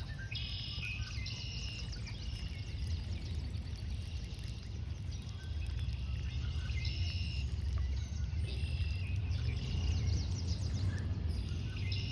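Birds chirping in short trilled bursts every second or two, over a steady low rumble.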